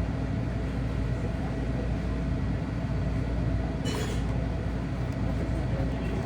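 Steady low road and engine rumble inside a moving car's cabin, with one brief sharp noise about four seconds in.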